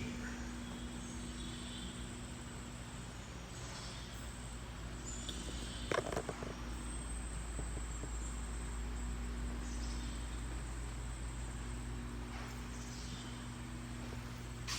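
Steady outdoor chorus of crickets and other insects chirring high and continuous, with a steady low hum underneath and a single sharp knock about six seconds in.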